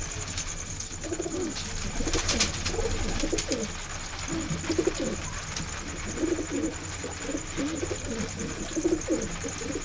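Domestic pigeons cooing, one call after another throughout.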